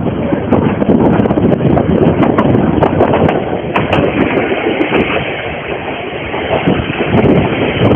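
Narrow-gauge steam train running, a steady rumble and clatter of wheels on the rails with scattered sharp clicks.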